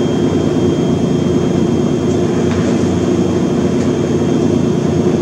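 A steady, unbroken mechanical drone with a constant hum running through it.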